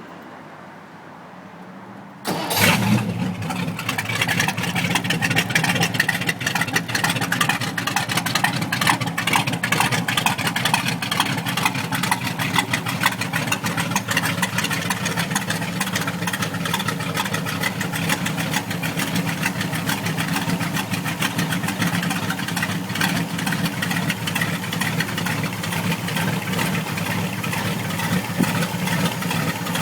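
1957 Ford Thunderbird 312 cubic-inch Y-block V8 starting: it fires suddenly about two seconds in, then runs at a steady, even idle.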